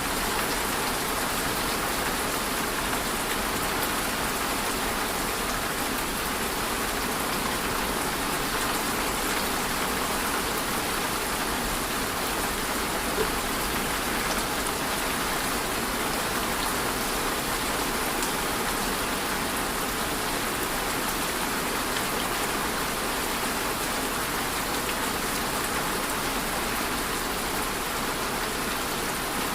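Steady rain falling on a surface: an even hiss of dense drops with faint scattered patters, and one small tick about thirteen seconds in.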